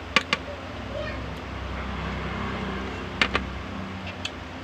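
Eating sounds: sharp clicks in two quick pairs, one just after the start and one about three seconds in, with a single click near the end, over a steady background hum.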